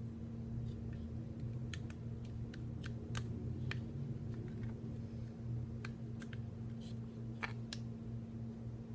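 Scattered small clicks and light taps of tools and metal parts handled while a Smith & Wesson M&P Shield 9mm pistol is disassembled, over a steady low hum.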